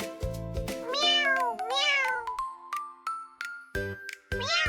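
A house cat meowing: one long meow about a second in and a shorter one near the end, over children's background music with a bass beat.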